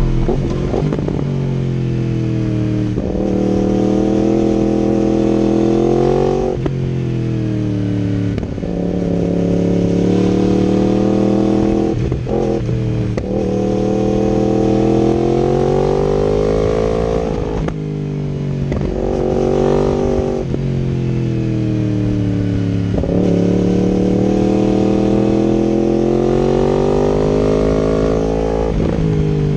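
2019 Yamaha R1's crossplane inline-four with an Akrapovič exhaust and link pipe, ridden hard through the gears. The exhaust note climbs in pitch with each pull and drops sharply at every upshift, about nine times.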